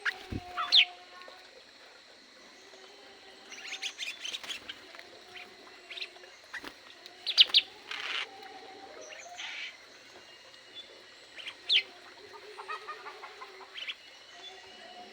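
Aviary birds chirping and calling: a mix of short, sharp chirps and quick whistled sweeps from several birds. The loudest calls come about a second in, around the middle, and a few seconds before the end.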